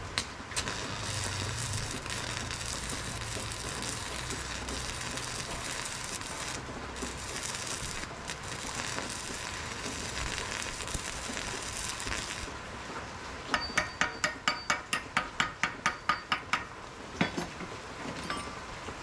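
A steady sizzling hiss, then a quick series of about fifteen ringing metal strikes, about five a second, with two more single strikes near the end: a hammer striking steel on an anvil while forging.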